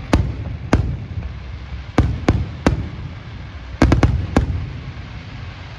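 Fireworks display: about nine sharp bangs from bursting shells, several in quick clusters, over a steady low rumble.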